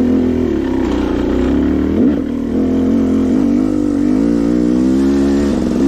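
KTM two-stroke dirt bike engine running under throttle while riding, its pitch rising and falling with the throttle, with brief dips about two seconds in and again a second later.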